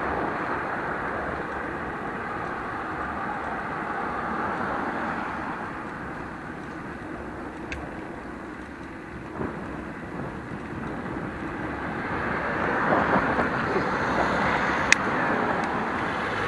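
Rushing wind and road noise from riding a bicycle on a road with traffic, a steady hiss that dips midway and swells again near the end. There are a couple of short sharp clicks.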